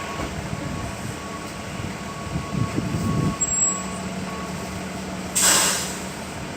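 Vehicle engine running with steady traffic rumble, and a short loud hiss about five and a half seconds in.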